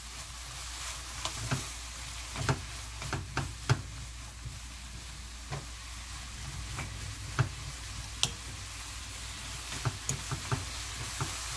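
Oyster mushrooms and sliced beef sizzling in perilla oil in a frying pan while being stir-fried with a wooden spatula. The spatula knocks against the pan at irregular moments.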